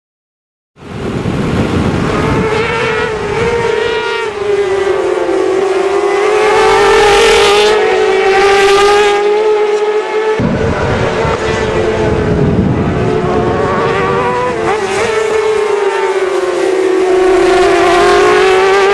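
Racing sport bike engines at high revs, starting about a second in, their pitch rising and falling with throttle and gear changes.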